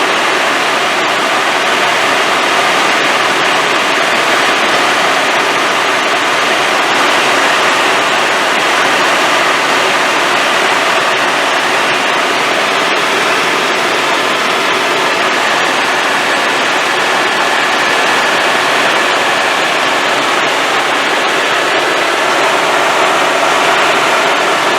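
Helicopter in flight heard from inside the cabin: a loud, steady rush of engine and rotor noise with a faint steady whine, unchanging throughout.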